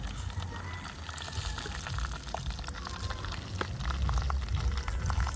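Chicken pieces sizzling and bubbling in a pot with water, a hiss that grows stronger about a second in, with scattered small clicks.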